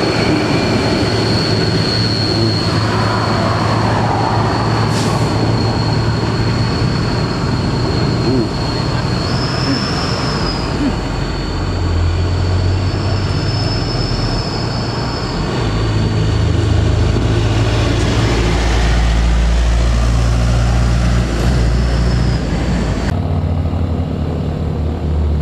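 Heavy diesel truck engine labouring up a steep grade under load, its deep note shifting pitch several times as it pulls. The sound changes abruptly near the end.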